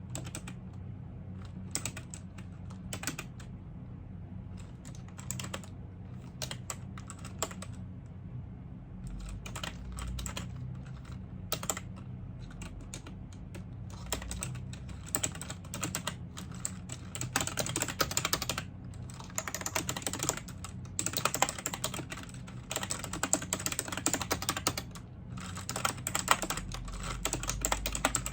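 Typing on a computer keyboard: scattered keystrokes at first, turning into fast, dense runs of typing from about halfway through. A steady low hum sits underneath.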